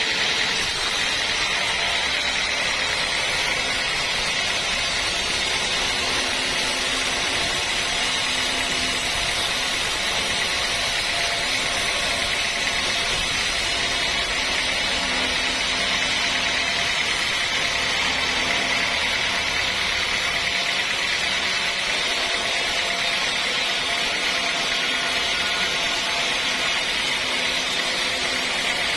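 Sawmill machinery running steadily: a continuous, even mechanical noise with a strong high hiss.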